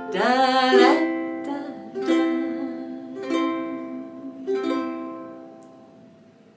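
Ukulele strummed with single down strums about a second apart, each chord left to ring and fade, with the last one dying away near the end. A voice hums or sings a wavering note over the first strum.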